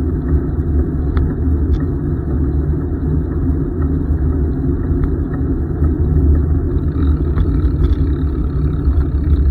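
Wind buffeting the microphone of a camera riding along on a bicycle, a loud steady low rumble, with a couple of light clicks in the first two seconds.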